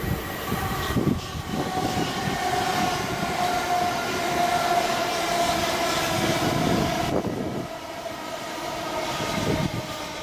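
Southern passenger train running non-stop through the station at speed: wheels rumbling on the rails with a steady whine over the top, the noise dropping away sharply about seven seconds in as the train clears the platform.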